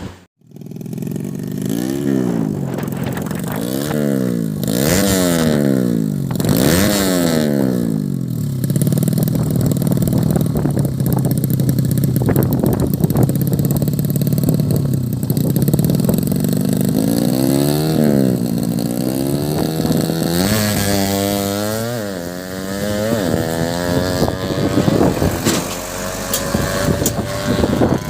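Tuned 115cc underbone drag-bike engine being revved: several sharp throttle blips rising and falling in the first few seconds, a steadier high run in the middle, then more climbing revs near the end.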